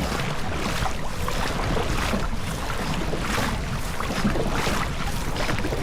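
Wind buffeting the microphone over a steady low rumble and water noise from a boat moving on the water, with gusts coming and going about once a second.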